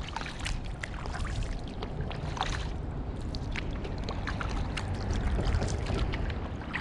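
Kayak paddling: the Werner paddle blades dipping into the water, with water splashing and dripping off them in scattered short splashes, over a steady low rumble.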